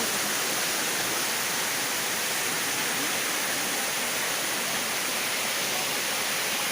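Steady rushing of water from a hot-spring waterfall and stream, an even hiss with no breaks.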